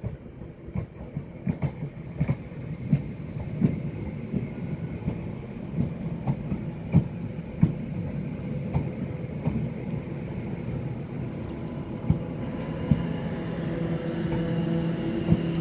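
A passenger train rolling into the station, its wheels clicking irregularly over rail joints and points. A steady hum from the train grows louder in the last few seconds.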